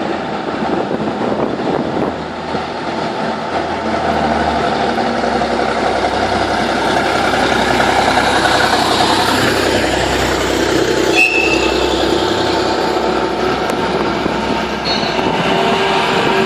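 Historic tram running past on its rails: a steady rumble and rattle of wheels and running gear that swells through the middle and eases off near the end. About eleven seconds in there is a sharp click and a brief high tone.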